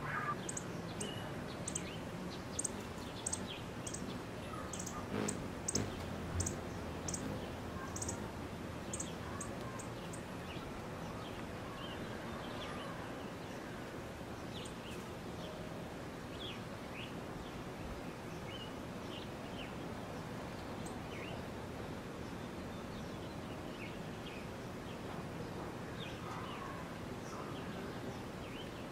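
Small birds chirping: a run of short, very high chips for about the first ten seconds, then scattered fainter chirps, over a steady outdoor background hiss.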